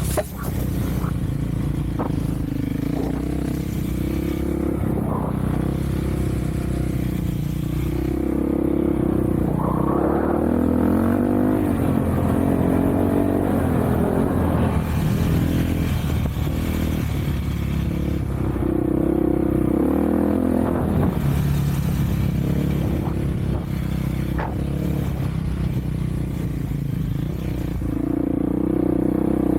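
Off-road vehicle engine running under way, its revs rising and falling with the throttle throughout.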